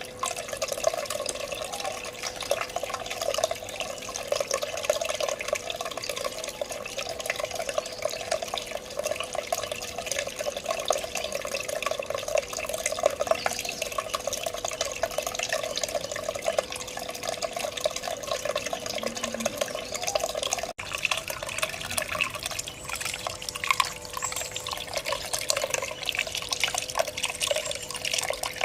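Water trickling and splashing continuously as it falls over a small cement tabletop waterfall in a pot, with a faint steady tone underneath. The sound briefly cuts out about 20 seconds in, then resumes with slightly brighter splashing.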